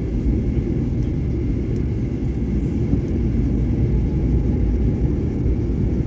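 Steady low rumble inside the cabin of a Boeing 737-800 airliner in flight, the jet engines and airflow blending into one even roar, on the approach before landing.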